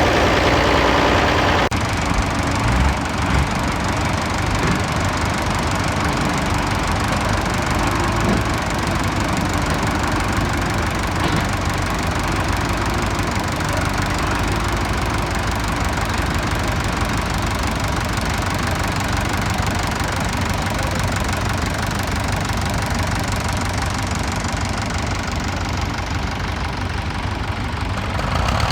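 Large six-cylinder diesel tractor engine running steadily. The sound changes abruptly about two seconds in, then stays steady.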